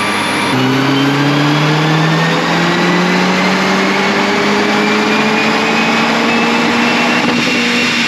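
Mercedes-AMG A45 S's turbocharged four-cylinder engine under full load on a chassis dyno in a power pull. The engine note changes about half a second in, then climbs steadily in pitch as the revs rise.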